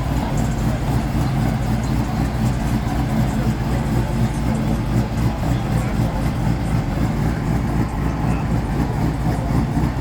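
Car engine idling steadily, low-pitched and even.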